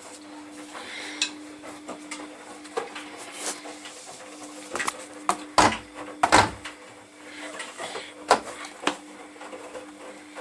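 Laundry machine running: a steady motor hum with irregular knocks and clinks from the turning drum, typical of clothes with buttons or zips tumbling inside. Two louder knocks come a little past the middle.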